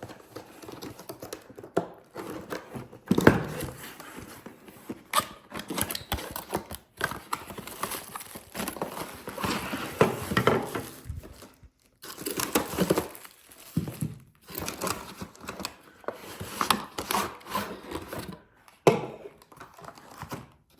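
Snow brush parts being unpacked from their box: plastic wrapping crinkling and tearing in irregular handling, with a few sharp knocks.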